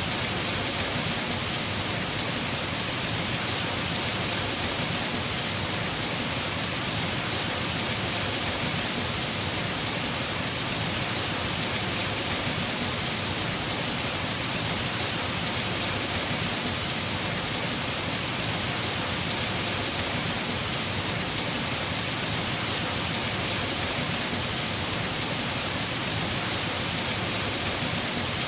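Heavy rain falling on a house roof: a steady, unbroken hiss of downpour.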